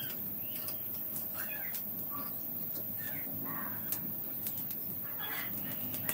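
Birds calling repeatedly in short, irregular calls, with a few sharp crackles from a charcoal fire that is grilling a whole durian.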